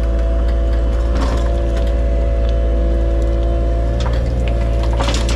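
Dump truck engine running steadily as the truck drives, with scattered rattles and clanks over it, the loudest about a second in and near the end.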